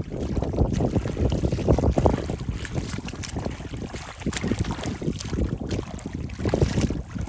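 Shallow water sloshing and splashing irregularly, mixed with wind buffeting the microphone.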